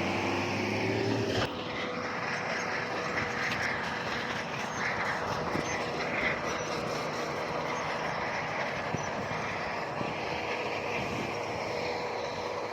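Bulldozer running, with steady mechanical noise and a steady high tone typical of its steel crawler tracks moving. The sound changes abruptly about a second and a half in.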